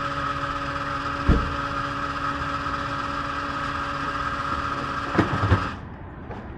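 Kawasaki Z H2 SE's supercharged inline-four engine running at a steady speed with a steady whine, broken by a knock about a second in and a few more knocks near the end. Then the engine sound drops away suddenly.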